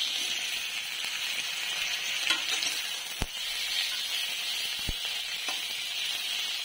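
Tomato wedges sizzling in hot mustard oil in a metal kadai, with a steady frying hiss. A metal spatula stirs them, knocking against the pan a few times.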